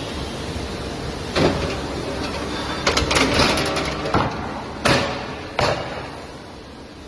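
Several sharp knocks and a short burst of clatter from wooden pallet repair work on a flip table, over a steady background hum.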